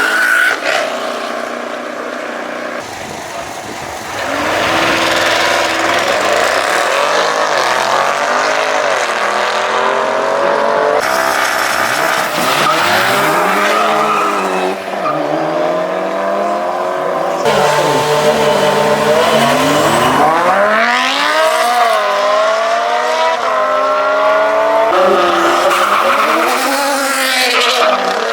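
High-horsepower street cars accelerating hard in drag runs: engines revving up, dropping at each gear change and climbing again. Several runs follow one another, each cut off abruptly.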